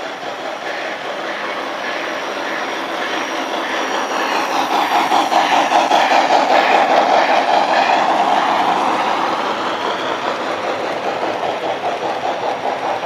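Model train, a cab-forward steam locomotive pulling a string of reefer cars, rolling past with steady clicking of wheels over the track. It grows louder to a peak about halfway through as the train passes closest, then fades.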